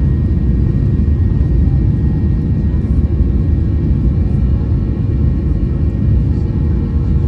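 Cabin noise inside a Boeing 737-800 under power: a steady, loud rumble from its CFM56-7B turbofan engines and the airflow, with a few steady engine tones above it.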